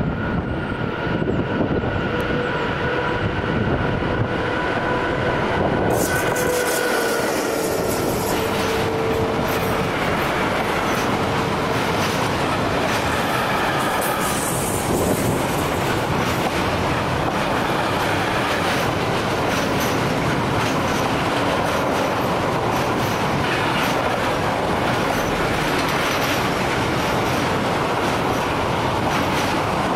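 Container freight train coming out of a tunnel and passing close by at speed. A steady whine sounds on the approach, then about six seconds in the train arrives loudly, and the wagons' wheels go on rolling over the rails.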